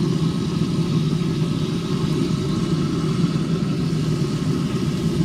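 A steady low hum and rumble, like a motor running, unchanging throughout.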